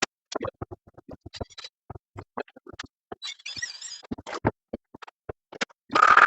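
Irregular clicks and knocks of hardware and tools being handled while pronged T-nuts are fitted into plywood, with a scraping squeak near the middle and a louder rasping burst at the end.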